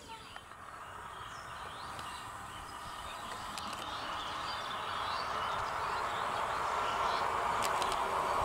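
Indian electric local train (EMU) approaching on the rails, its wheel and running noise growing steadily louder.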